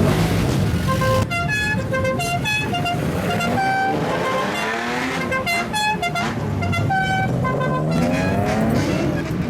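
A car's multi-note musical horn plays a tune of short stepped notes over a steady low exhaust rumble. The engine revs up twice, rising in pitch, once around the middle and once near the end.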